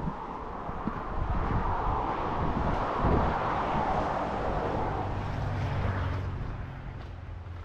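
A road vehicle passing on the highway: a swell of tyre and engine noise that builds to a peak around the middle and then fades away.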